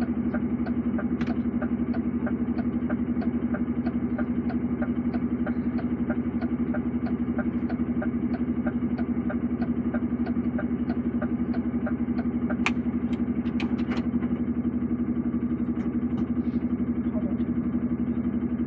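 Lorry's diesel engine running steadily, heard from inside the cab, with a regular light ticking about two to three times a second. A few sharp clicks come about two-thirds of the way through.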